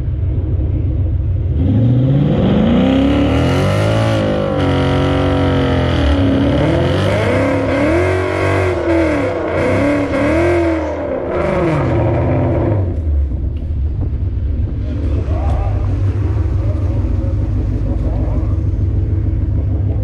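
Car engine accelerating hard at full throttle for about eleven seconds, its pitch climbing and dropping back again and again as it shifts through the gears, then falling away to a low, steady rumble.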